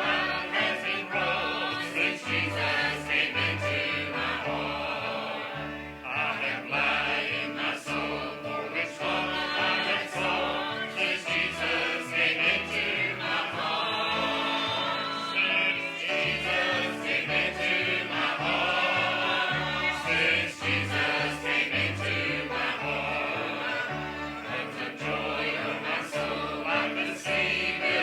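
Church choir singing a gospel hymn with instrumental accompaniment and a steady bass line.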